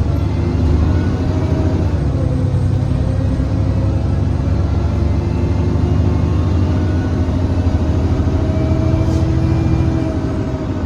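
Alexander Dennis Enviro400 (E40D) double-decker bus under way: a steady low engine drone with a whining, hoover-like tone over it that rises slowly through the second half and eases off near the end.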